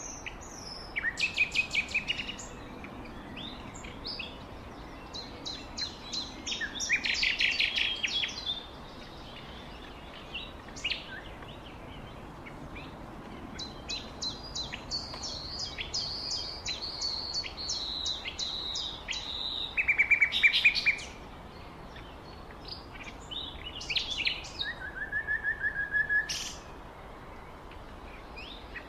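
Birds singing: several phrases of rapid, high-pitched trilled chirps over a steady background hiss, the loudest burst about two-thirds of the way through.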